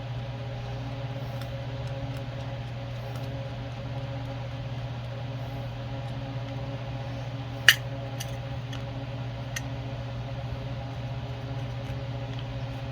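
Steady mechanical hum, like a running shop fan. About two-thirds of the way through there is one sharp click, followed by a few light ticks, as small metal carburetor parts are handled.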